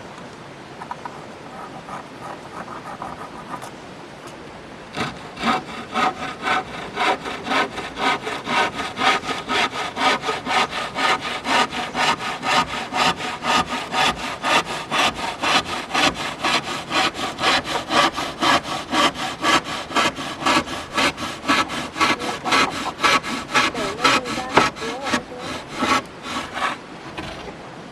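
Hand saw cutting through wood in steady back-and-forth strokes, about two to three a second. It starts with a few light strokes, then cuts in earnest from about five seconds in until shortly before the end.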